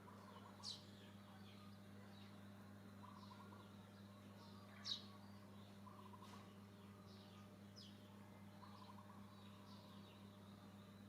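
Faint high, birdlike chirps and calls over a steady low hum, with two louder sharp chirps: one just under a second in and one about halfway through.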